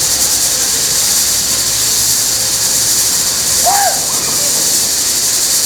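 Loud, steady high-pitched hiss of a spray jet that cuts off suddenly at the end, with one brief rising-and-falling tone about two-thirds of the way through.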